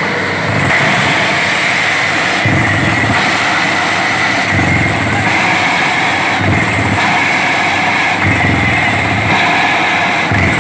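Borewell drilling rig running steadily and loudly, with a low pulse that comes round about every two seconds.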